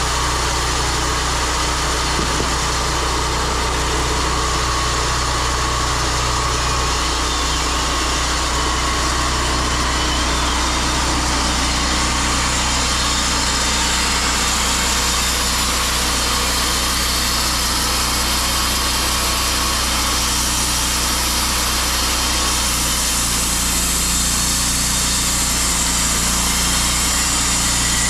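Sawmill engine running steadily as the blade cuts a cedar log, with a hiss from the cut that grows somewhat stronger in the second half.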